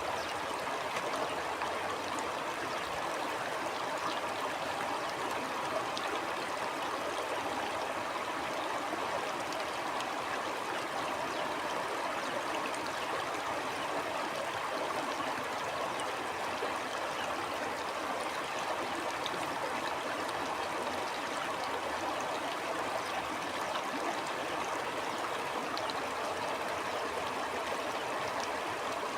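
Stream water flowing steadily over stones, an even rushing with fine trickling and gurgling.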